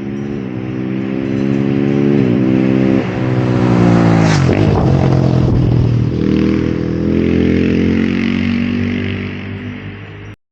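KTM 690 SMC R single-cylinder engine pulling hard through the gears, its pitch climbing and dropping with each upshift, then falling away about four and a half seconds in as the throttle closes, before running steadily again. The sound cuts off suddenly near the end.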